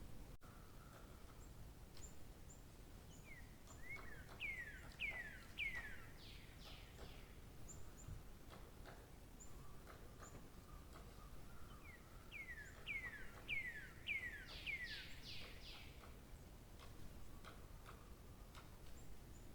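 A songbird singing two phrases, each a series of about eight downslurred whistled notes, roughly two a second. The phrases come about eight seconds apart, with faint high chips from other birds in between.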